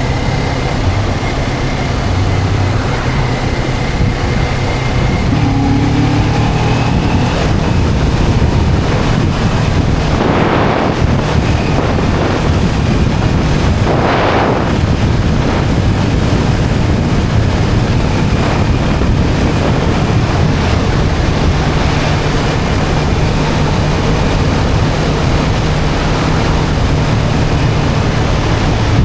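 Motorcycle engine running steadily at cruising speed, with wind rushing over the microphone. Two brief swells of noise come about ten and fourteen seconds in.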